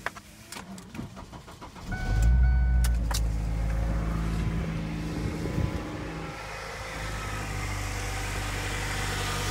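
A car engine starts about two seconds in, after a few light clicks, and then idles steadily. A short high tone sounds briefly as it catches.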